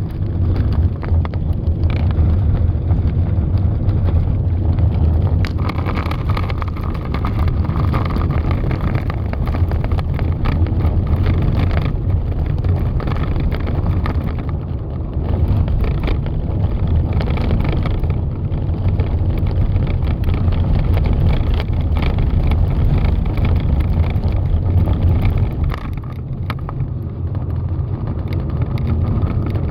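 Steady low rumble of blizzard wind on the microphone mixed with vehicle noise, easing off briefly a few times.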